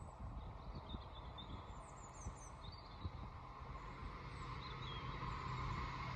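Small birds chirping over a low outdoor rumble, while a train approaches and grows steadily louder through the second half, with a rising hum and a tone building.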